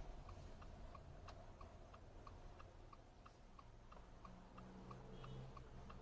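Faint, regular ticking, about three ticks a second, over near silence.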